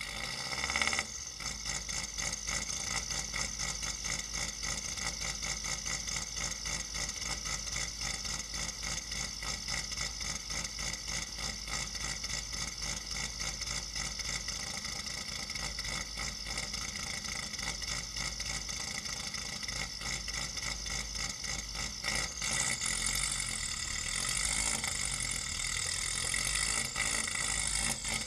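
Subaru WRX's turbocharged flat-four engine, heard at the exhaust, running a choppy, rapidly pulsing idle from the Carberry ROM's rotational idle (anti-lag). It comes in suddenly at the start with a brief flare about a second in, and grows louder and harsher near the end as the car starts to roll.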